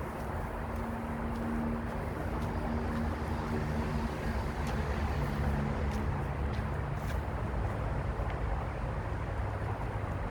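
Wind rumbling on the microphone, a steady low roar, with a faint steady hum under it.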